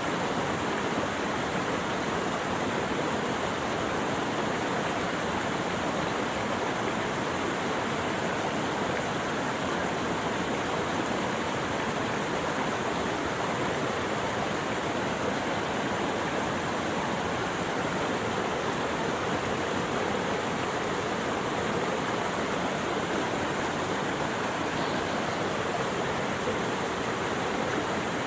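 Running water rushing steadily, an even unbroken noise like a stream or waterfall.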